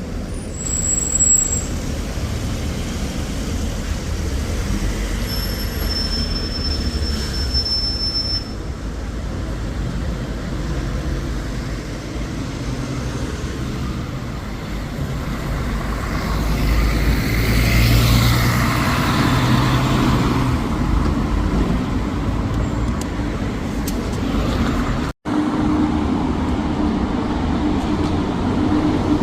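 Road traffic rumbling steadily, with a louder vehicle passing by about two-thirds of the way through. Near the end the sound cuts out for an instant and returns as a steady low hum.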